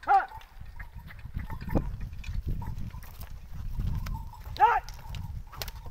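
Two short rising-and-falling livestock calls, one at the very start and one near the end, over a steady low rumble and scattered small knocks from the ploughing field.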